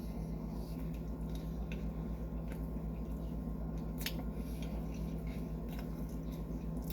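Someone chewing food, with scattered soft wet mouth clicks, over a steady low hum.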